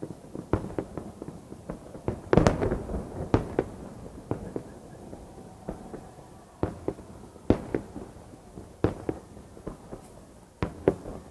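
Fireworks salute: irregular sharp bangs of shells bursting overhead, with the loudest cluster about two and a half seconds in, each followed by a short echoing tail.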